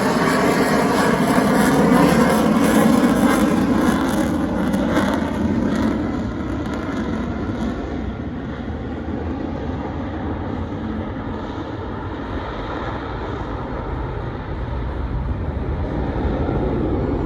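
Airplane flying past, loud for the first few seconds, then fading about six seconds in to a steadier, duller distant rumble.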